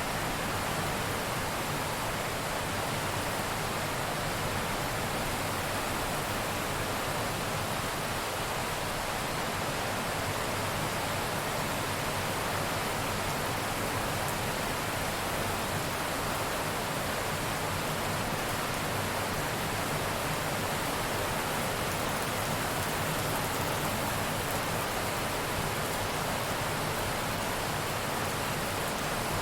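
Steady heavy rain falling: an even, unbroken hiss at a constant level.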